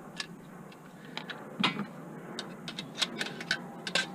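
Irregular light metallic clicks and clinks as an aluminium sliding-door frame and its screws and rollers are worked apart by hand, with a few sharper knocks about halfway through and near the end.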